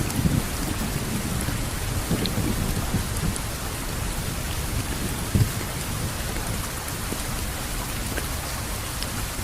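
Steady rain falling over a low rumble of thunder, which is heaviest at the start and eases off within the first second or so. One brief low knock about five seconds in.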